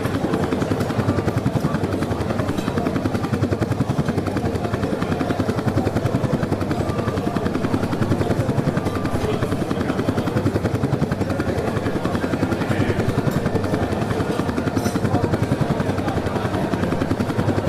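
A formation of four HAL Chetak helicopters flying low overhead, their rotors making a steady, rapid chopping.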